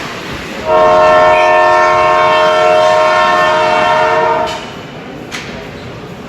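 Arena horn sounding one long, steady chord of several notes for about four seconds, then cutting off, over background crowd noise.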